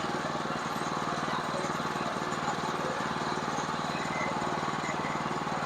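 Sawmill's engine running steadily, with a fast, even pulse.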